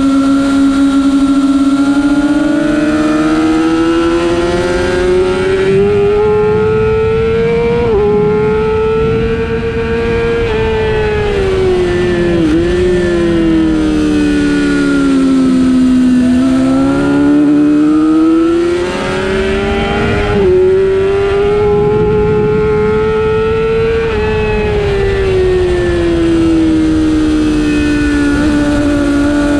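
Middleweight race motorcycle's engine at racing speed, heard from on board over a rush of wind noise. Its pitch climbs and falls steadily as the bike accelerates and slows, with brief sharp dips in pitch about eight, twelve and twenty seconds in.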